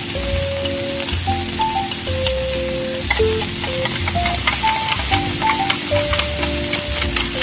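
Chopped garlic sizzling in melted butter in a miniature steel wok, with a small metal spoon stirring and ticking against the pan; the crackling grows busier about three seconds in. A simple melody with soft chords plays along.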